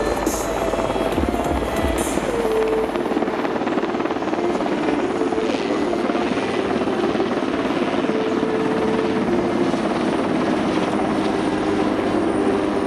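Super Puma twin-turbine helicopter in flight: steady rotor and turbine noise, with a heavy low rotor beat over the first two to three seconds that then fades.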